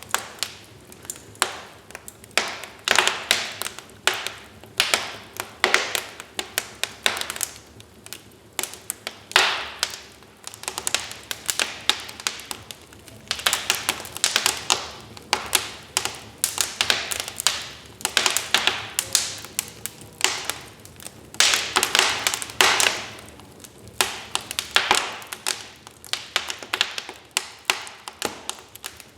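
Wood fire in a fireplace crackling, with irregular sharp snaps and pops coming in clusters over a low steady hiss of burning.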